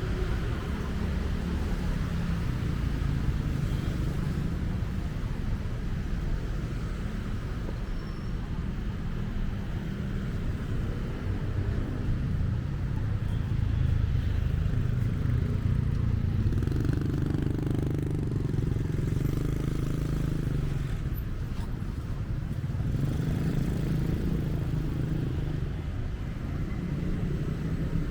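Traffic on a busy city road: a steady low rumble of car and motorcycle engines that swells and fades as vehicles pass.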